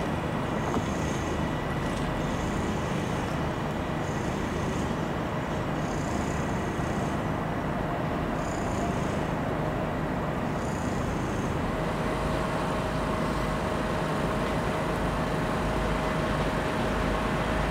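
Steady running noise of a passenger train at the station, with a faint high whine that fades out about halfway and a lower steady tone that comes in about twelve seconds in.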